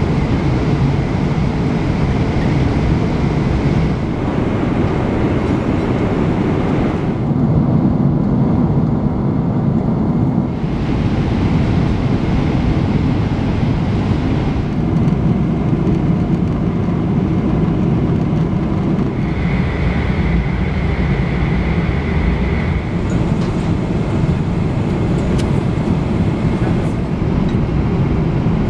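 Steady loud rumble of jet cabin noise, engines and airflow heard from inside a Boeing 777-300ER's cabin in cruise. Its tone shifts abruptly a few times, and a faint high steady tone comes and goes.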